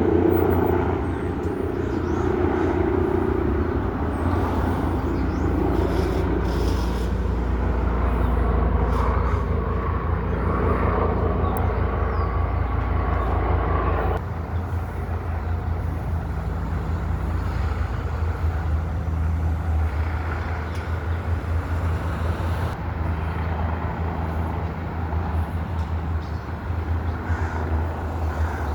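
Helicopter rotor and engine running as the aircraft comes in to land, a steady low drone with a fast rotor beat. The level drops a step about halfway through.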